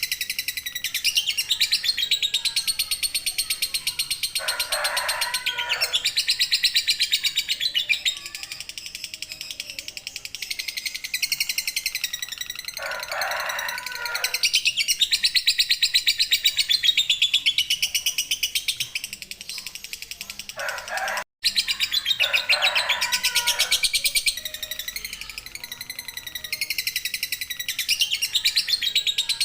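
Lovebird singing its 'ngekek': a long, very rapid, high-pitched chattering trill that goes on in long runs with short dips between them. A few lower-pitched calls break in briefly three times, and the sound cuts out for an instant about two-thirds of the way through.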